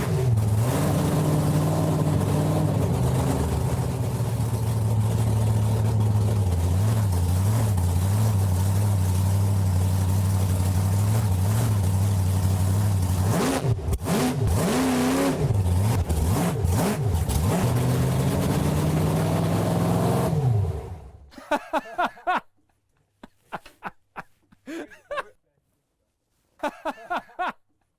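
Methanol-burning monster truck engine running loud and steady just after start-up, its pitch rising and falling partway through, then shutting off about twenty seconds in. A few faint voices follow.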